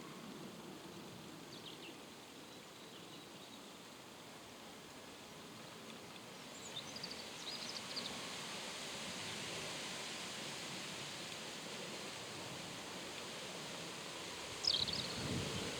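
Steady outdoor background noise with a few short, high bird chirps: a faint one about two seconds in, a cluster of them in the middle, and the loudest near the end.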